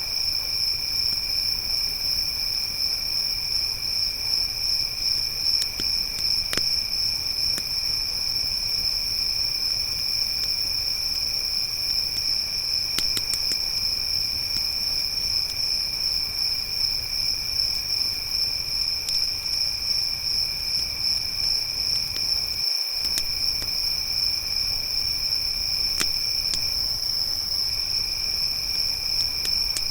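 Steady chorus of crickets chirring on a continuous high note, with a second, lower insect trill that breaks off for about a second near the end. Sparse sharp pops and crackles from a wood campfire sound every few seconds.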